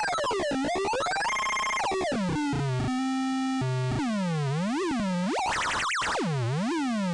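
Electronic synthesizer tones: a buzzy, overtone-rich tone bending in pitch, then a few notes stepping down to a held low note, then repeated swoops down and up in pitch, several times over.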